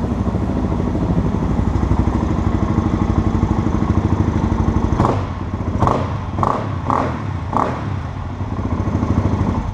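Kawasaki KLX400's single-cylinder four-stroke engine running after a cylinder head and valve rebuild, with a fast, even exhaust pulse. In the second half a few short, sharp louder bursts break into the running.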